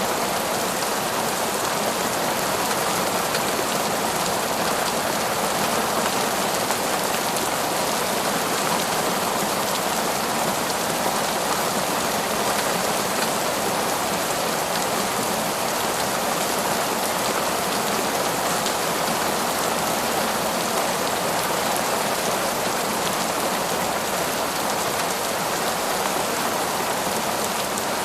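Heavy torrential rain falling among forest trees, a dense, even hiss that holds steady throughout with no thunder.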